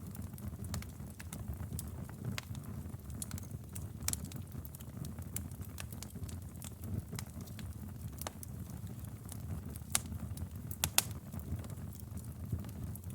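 Campfire burning: a steady low rumble of the flames with irregular sharp crackles and pops of burning wood, two louder pops near the end.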